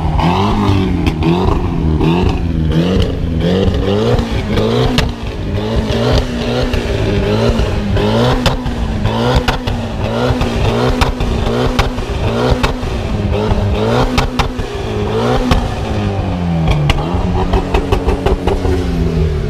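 BMW E36 engine revved hard and repeatedly, its pitch rising and falling about once a second, with sharp cracks throughout, in a try for exhaust flames that don't come. Near the end the revs fall away to idle.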